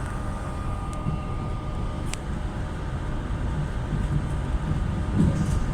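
Metro Bilbao electric train running through a station: a steady low rumble with a faint whine that fades about two seconds in, and a few light clicks.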